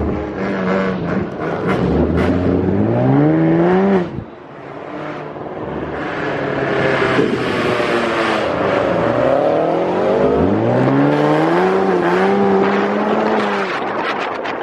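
Car engines revving hard as cars accelerate away, the pitch climbing steeply. One rev cuts off abruptly about four seconds in; another climbs from about ten seconds in and holds high.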